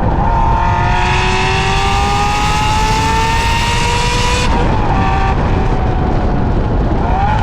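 Ferrari F355's 3.5-litre V8 pulling under load, its pitch rising steadily for about four seconds, then dropping abruptly and running steady before climbing again near the end.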